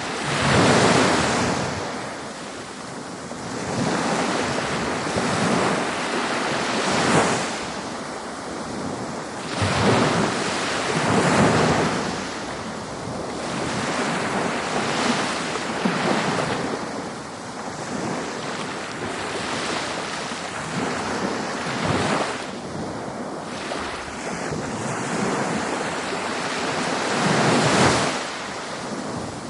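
Ocean surf breaking on a beach: a steady wash of noise that swells with each wave every few seconds. Wind on the microphone runs under it.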